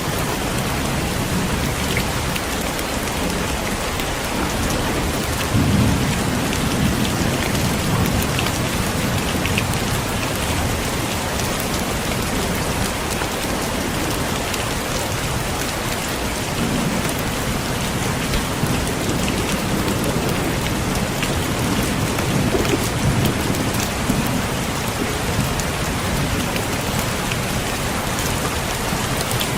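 Heavy rain falling steadily, with low rolls of thunder rumbling in several times.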